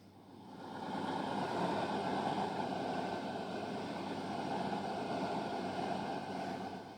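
Train running on the line: a steady rushing rumble that builds over about a second and drops away sharply near the end.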